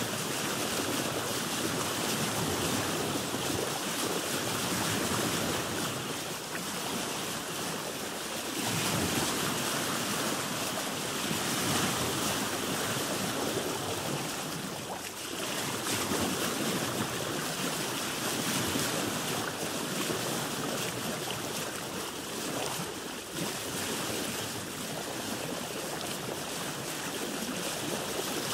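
Sea waves washing and splashing around a boat, a steady rushing that swells and eases every few seconds.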